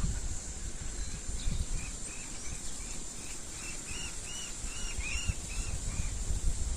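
A bird calling a run of about a dozen short arched notes, roughly two a second, swelling and then fading, over a steady high insect drone and a low rumble.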